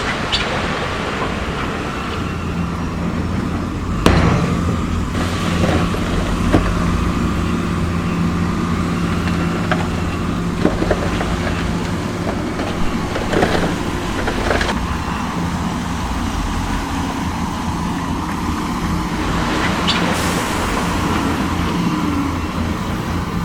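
Heavy construction machinery running steadily, with the diesel engine drone of earth-moving equipment and repeated knocks and clanks, the sharpest about four seconds in.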